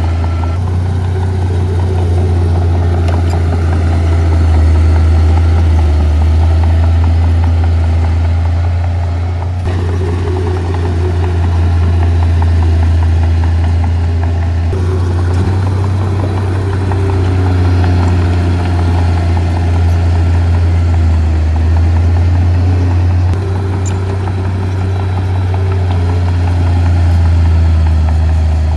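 Heavy diesel construction machinery running steadily with a strong low drone, the engine note shifting a little as it works. The sound changes abruptly twice, about ten and fifteen seconds in.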